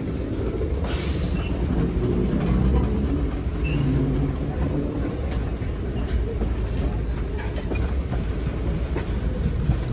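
Passenger train rolling along the track: a steady low rumble with scattered clicks and knocks, one sharper knock about a second in.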